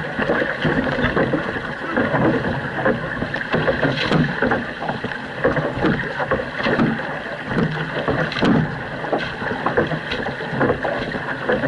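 Outrigger canoe crew paddling: blades catching and pulling through the water in a steady rhythm, about one stroke every three-quarters of a second, over the constant rush of water along the hull.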